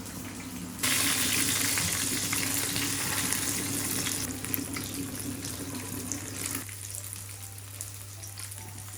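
Food sizzling as it goes into a hot pan: a loud hiss starts suddenly about a second in and slowly dies down over several seconds. A steady low hum runs underneath.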